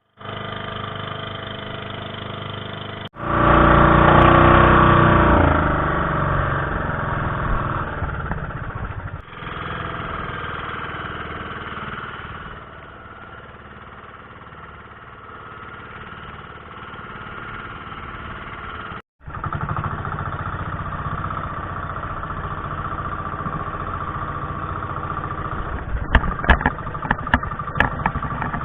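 Small boat engine running steadily, heard in several cut-together stretches and loudest a few seconds in. Rapid irregular knocks join it near the end.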